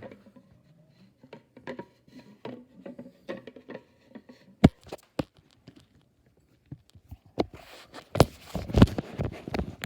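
Scattered light clicks and taps, one sharp knock a little before the middle, then a busy run of knocks and rustling near the end, like things being handled and set down close to the microphone.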